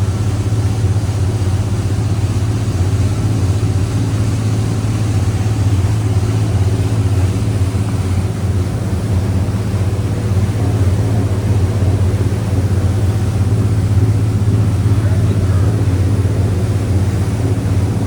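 Twin Cummins 8.3 inline-six diesel engines of a 44-foot cruiser running steadily under way, a constant deep drone with water and wind rush over it.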